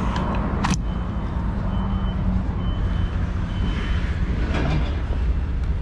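Lorry's diesel engine running with a steady low rumble, heard from the cab, while a reversing alarm sounds a few short high beeps in the middle. A sharp click comes about a second in.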